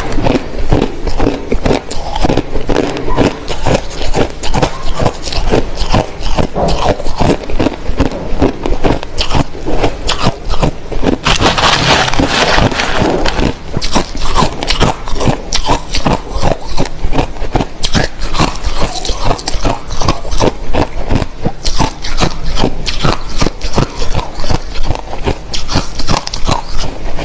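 A person biting and chewing hard crushed ice close to the microphone: a dense, rapid run of sharp cracks and crunches, with a louder, hissier stretch of crunching about eleven seconds in.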